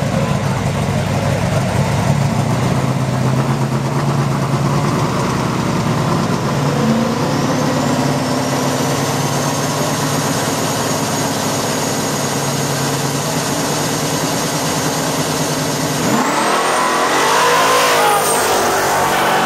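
Two street-race cars, a turbocharged Firebird and a Chevrolet Malibu, running at the line, their engines idling and being revved, with a high whine that rises and then holds, typical of the turbo spooling. About sixteen seconds in they launch, and the engine notes climb and fall away as the cars run past.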